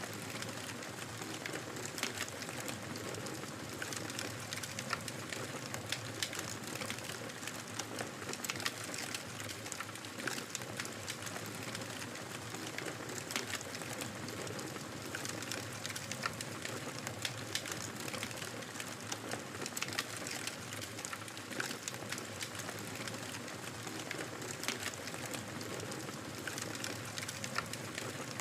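Wood fire crackling in a fireplace: a steady hiss with many small sharp pops and crackles scattered irregularly throughout.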